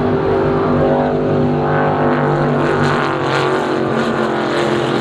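Offshore racing powerboats at speed, their engines running loud with several overlapping engine notes that glide up and down in pitch as the boats pass.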